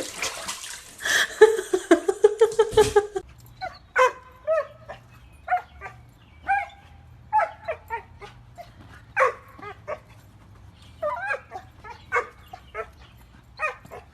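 A dog giving a string of short yips and whimpers, one or two a second. The first three seconds are louder and noisier, with a longer rising whine.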